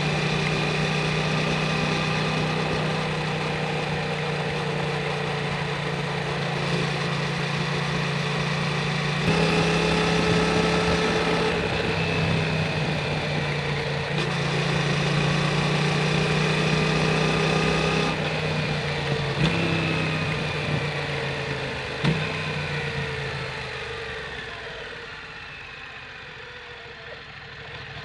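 Yamaha MT-07's parallel-twin engine running through an Akrapovic titanium full exhaust at low, steady revs, its note shifting a few times. Near the end it drops to a quieter, lower note, then picks up again.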